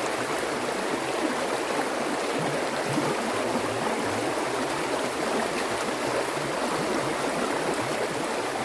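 Stream water flowing and burbling steadily.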